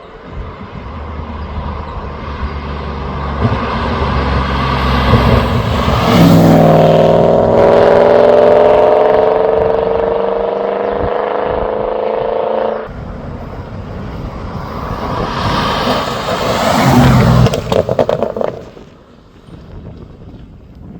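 BMW E30 with a swapped 4-litre V8 making drive-by passes. The engine note builds, holds loud with its pitch slowly falling, then cuts off sharply about two-thirds through. A second pass builds to a peak a few seconds later and falls away.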